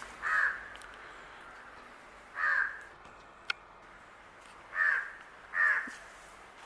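Four short bird calls, a second or two apart, with a single sharp click midway between them.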